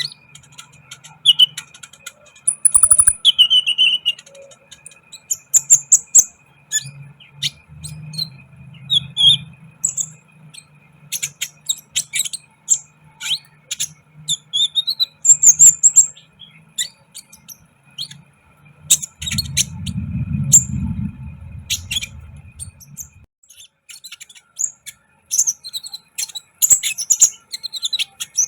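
Caged sunbird (kolibri ninja) calling in short, high chirps and twitters, scattered irregularly with brief pauses. A low rumble comes in for a few seconds about two-thirds of the way through.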